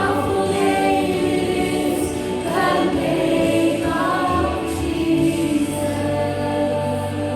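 Congregation and worship band singing a Christian worship song, with sustained chords underneath and the sound fading slightly near the end.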